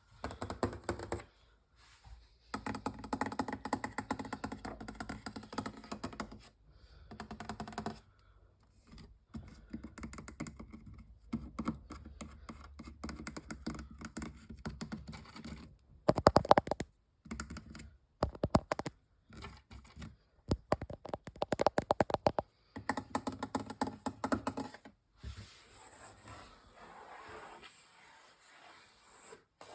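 Fast ASMR tapping: fingers tapping rapidly on hard objects in runs of quick clicks broken by short pauses. The loudest runs come about sixteen and twenty-one seconds in, and the tapping turns softer near the end.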